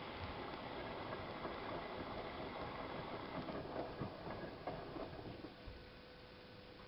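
Siemens iQ WIQ1430 front-loading washing machine in the wash phase of a 90 °C boil wash: wet laundry tumbling and sloshing in the turning drum with soft irregular thumps over a steady hum. The tumbling dies away about five and a half seconds in as the drum pauses.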